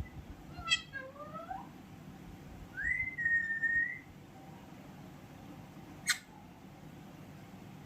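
Pet parrot calling: a few short rising chirps about a second in, then a whistled note held for about a second, and one sharp click around six seconds in.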